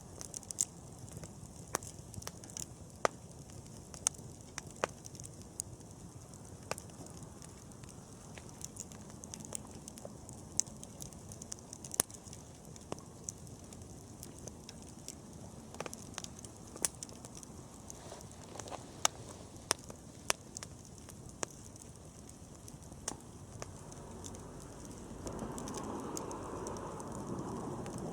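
Wood bonfire crackling and popping, with sharp irregular snaps over a steady hiss of burning. A louder rushing sound builds near the end.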